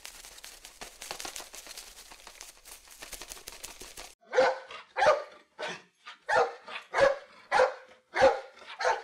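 A faint steady hiss with small crackles, then from about four seconds in a dog barking repeatedly, about eight loud barks at an even pace of a little under two a second.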